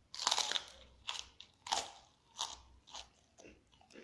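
A person biting and chewing crunchy food close to the microphone while eating telur geprek with rice and sambal: a loud crunching bite just after the start, then a crunch roughly every half second as the chewing goes on.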